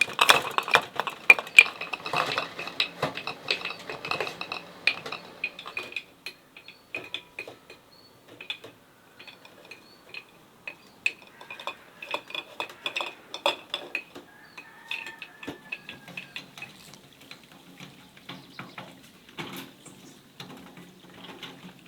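Utensils and dishes clinking and knocking in a steady series of short clicks and taps, busiest in the first five seconds.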